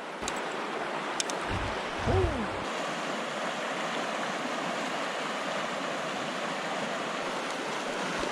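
River water rushing steadily, with a brief low thump about two seconds in.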